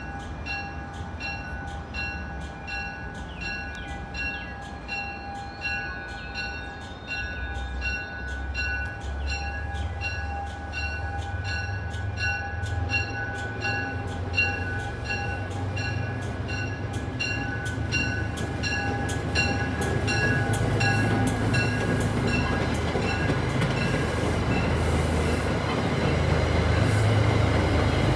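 Railroad grade-crossing bell dinging about twice a second and stopping near the end. Under it is the low rumble of a passing commuter train, which grows louder.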